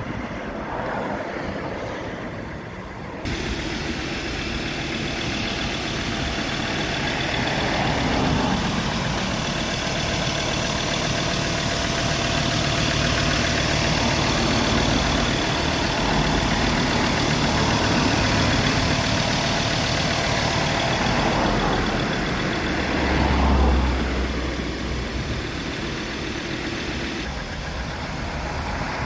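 Ford Ranger Wildtrak pickup's engine running steadily, with a brief louder low rumble late on.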